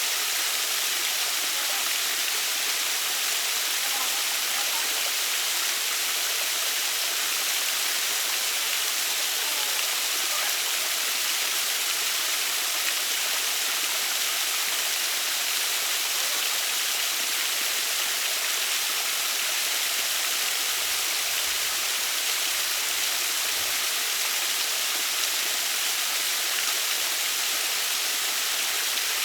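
Water of a small waterfall falling and splashing steadily, an even, constant rush.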